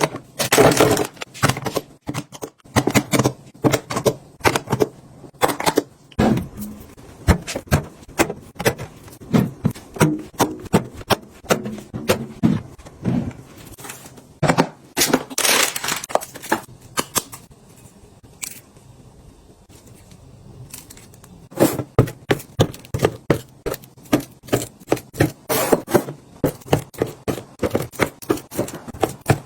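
Packaged snacks and containers being handled and set down: many irregular clicks and knocks, with a few brief crinkling rustles of wrappers, and a quieter lull a little past the middle.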